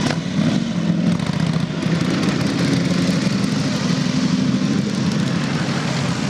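Motorcycle engine running at steady revs, its pitch wavering slightly in the middle.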